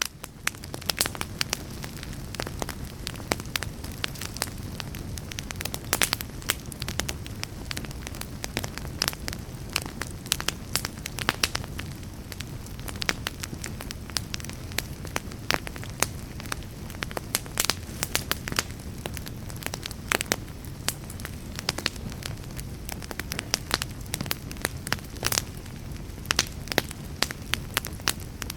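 Fireplace fire crackling: a steady low rumble and hiss with many sharp, irregular pops and snaps.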